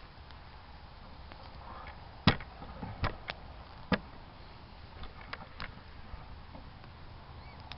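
Wood fire crackling, with a handful of sharp pops, the loudest a little over two seconds in.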